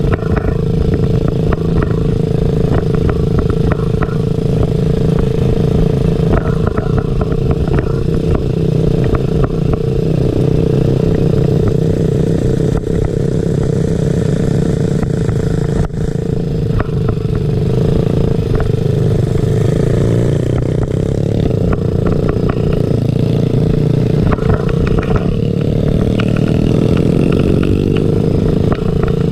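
Small dirt-bike engine running steadily while riding, with rattling clatter throughout and a few changes in pitch near the end.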